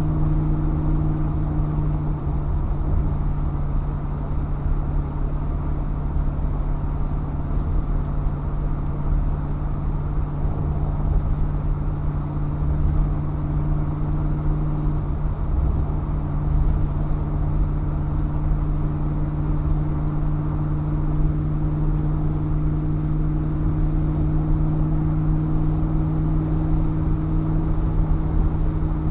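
1964 Chevrolet Impala SS's 300 hp 327 V8, through 2.5-inch exhaust with Porter mufflers, cruising at steady speed: a steady engine and exhaust drone over low road and tyre rumble. The drone eases off briefly a couple of seconds in and again about halfway through.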